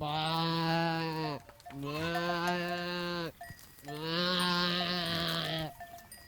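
A farm animal calling three times, each a long, steady call of about a second and a half that drops slightly in pitch at the end.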